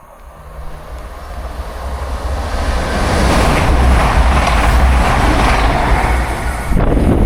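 Train passing at speed: its rumble and rush of wheel noise build over the first few seconds into a loud, steady passage, with a sudden surge in loudness near the end.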